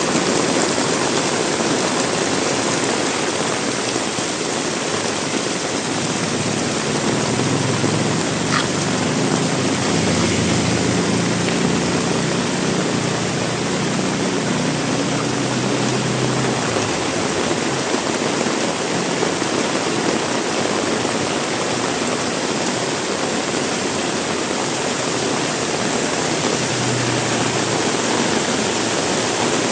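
Heavy rain pouring down in a steady, dense hiss. From about a quarter of the way in, a low hum lasts for several seconds and returns briefly near the end.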